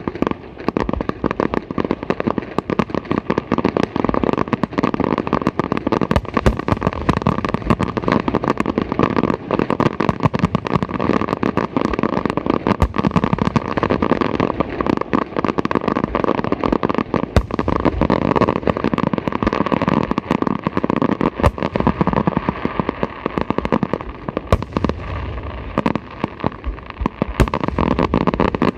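Aerial fireworks going off in a continuous barrage, dense sharp bangs and crackling many times a second with no break.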